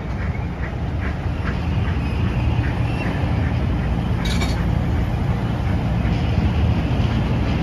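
Train coaches running past at speed: a steady low rumble of wheels on rail, with a quick run of regular clicks that fades after about two and a half seconds and a brief sharp clank about four seconds in.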